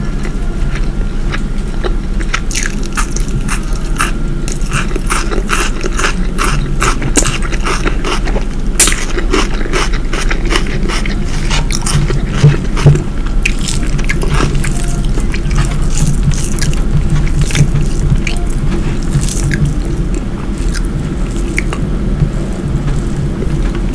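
Close-miked chewing and eating: a run of short wet mouth clicks and smacks, thickest in the first half and sparser later, over a steady low hum.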